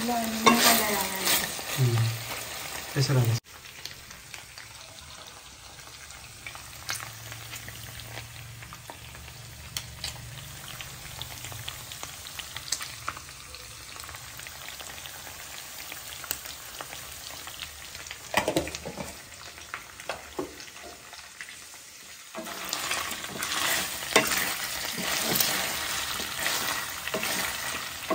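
Chunks of pork sizzling as they fry in a non-stick wok, with a spatula scraping and clicking against the pan as the meat is stirred. The sizzling and stirring are louder in the first few seconds and again near the end, and quieter in between.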